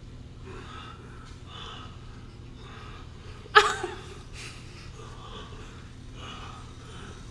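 Heavy, rhythmic breathing, about one breath a second, with a man's and a woman's voices, played back from a TV or film soundtrack; one sudden loud sharp gasp or cry comes about three and a half seconds in.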